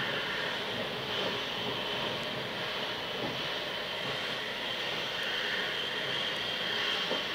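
Steady rushing, rumbling noise of a train running.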